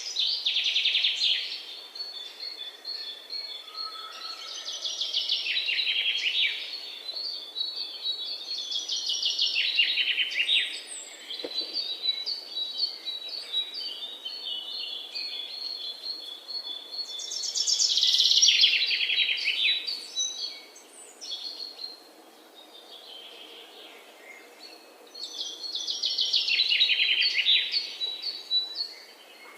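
Songbirds singing: a loud song of rapid high notes falling in pitch, each lasting about two seconds and coming back several times, over a steady high trill of evenly spaced notes through the first half.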